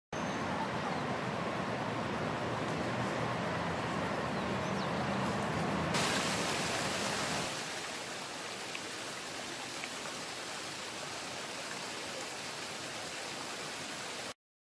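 Steady rushing outdoor background noise with no clear tones. About six seconds in the hiss turns brighter, a second or so later the low rumble drops away and the sound gets a little quieter, and it cuts off abruptly near the end.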